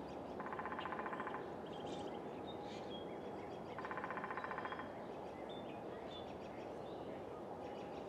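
Faint outdoor ambience of birds chirping, with a short rattling trill about a second long heard twice, roughly three seconds apart.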